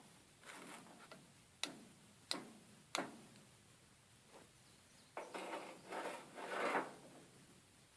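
Three light hammer taps on a U-joint bearing cap being driven further into the axle yoke, about two-thirds of a second apart, each with a short metallic ring. A few seconds of rubbing and scraping of the parts being handled follow.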